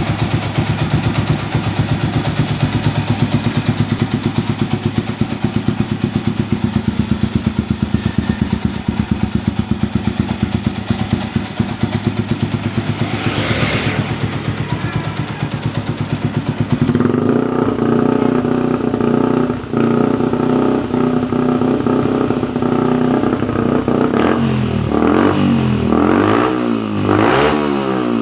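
Yamaha Vixion's single-cylinder four-stroke engine running through an aftermarket RPL Racing exhaust. It idles with an even, quick pulse for about the first seventeen seconds, then runs at higher revs, and near the end it is blipped up and down several times in a row.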